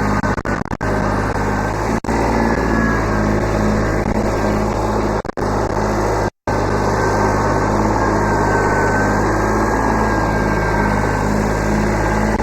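Kubota B7100 subcompact tractor's three-cylinder diesel engine running steadily under work, with a thin high whine over the engine note. The sound drops out briefly a few times and cuts to silence for a moment about six seconds in.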